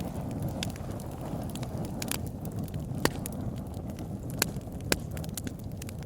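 Campfire burning with a steady low rumble of flames and scattered sharp crackles and pops of wood, the strongest about three and five seconds in.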